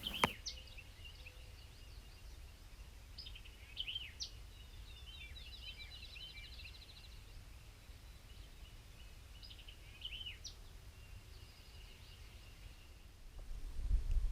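Faint songbirds calling: scattered chirps and short down-slurred whistles, with a fast trill of rapidly repeated notes about five to seven seconds in. A few low thumps near the end.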